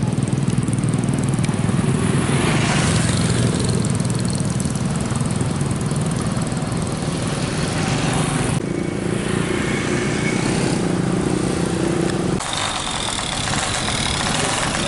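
Roadside traffic: vehicle engines running close by with road noise, the mix changing abruptly twice.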